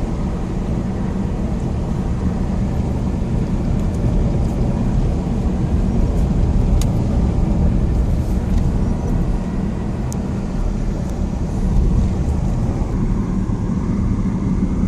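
Steady low rumble of a car driving, road and engine noise, with a few faint ticks.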